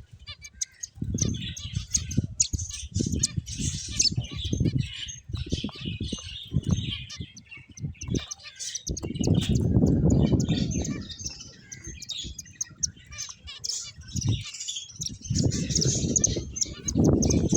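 Pet finches chirping with many quick, high tweets. Bursts of low fluttering noise come and go, loudest about halfway through and again near the end.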